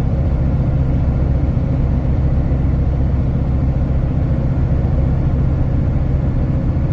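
Kenworth T360 concrete mixer truck's diesel engine running steadily under way, heard from inside the cab as a low, even drone.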